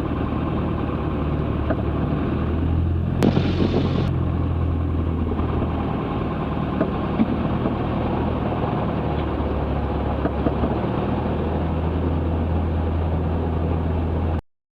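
Cessna 162 Skycatcher's Continental O-200 engine running steadily at low taxi power, a low even drone. A short hiss about three seconds in, and the sound cuts off suddenly just before the end.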